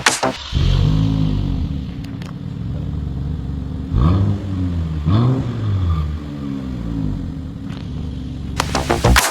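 The 2024 Nissan Z's twin-turbo V6 running through an AWE Tuning aftermarket exhaust. It comes in about half a second in and settles to a steady idle, with two short blips of the throttle about four and five seconds in, each rising and falling back to idle.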